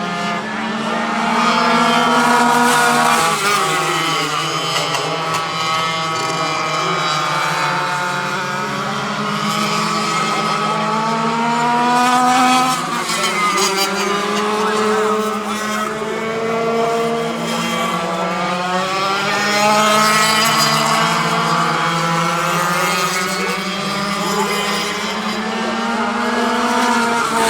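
Several two-stroke go-kart engines racing around a track, their buzzing pitch rising and falling as the karts accelerate and ease off. The sound swells as karts pass, several times.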